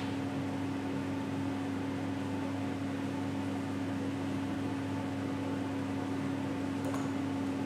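Steady mechanical hum of a small electric motor running at constant speed, with a faint tick near the end.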